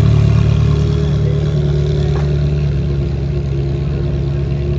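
Ferrari 360's V8 engine running steadily at low revs as the car pulls slowly away, growing slightly fainter.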